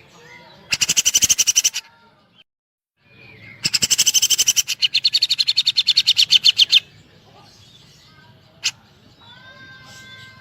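Cucak jenggot bulbul singing rapid-fire 'tembakan' bursts in the style of a woodpecker call: fast trains of sharp high notes, about eleven a second. A burst of about a second is followed by a longer one of about three seconds, then softer whistled notes near the end.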